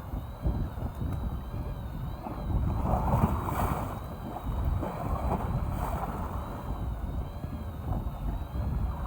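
Wind buffeting the microphone and sea water washing around a fishing boat, a steady low rumble that swells for a moment about three seconds in.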